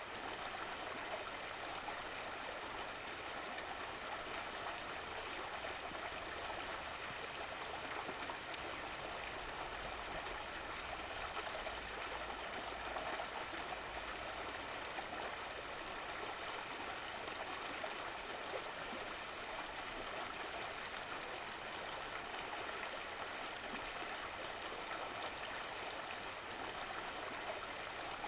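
Stream of running water flowing and trickling in a steady, unbroken rush.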